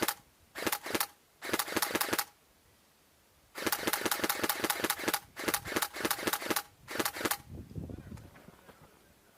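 Airsoft electric rifle firing about six full-auto bursts, some short and some over a second long, each a rapid string of clacks with a steady motor whine under it.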